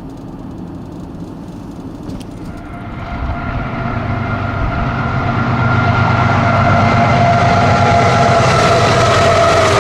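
Freight train with diesel locomotives approaching, its rumble and engine drone growing louder from about three seconds in and staying loud and steady over the last few seconds.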